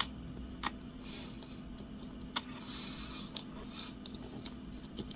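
Person chewing a mouthful of soft donut with closed lips, with a few short wet mouth clicks and smacks scattered through, over a low steady hum.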